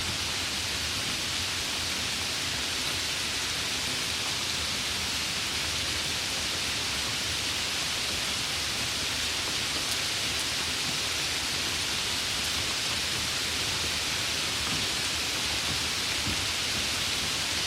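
Steady rain, an even patter of many drops falling on a surface, with no change in strength.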